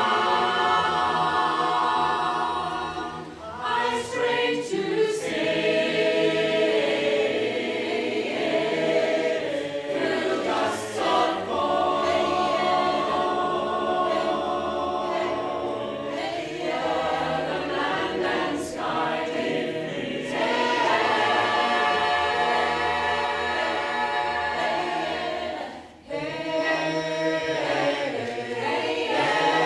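Choir singing held chords in harmony, with a short pause about three seconds in and another near the end.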